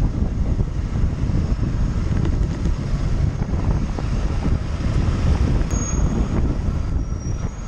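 Wind buffeting a helmet-camera microphone on a moving motorcycle: a dense, steady low rumble, with traffic noise from the ride mixed in.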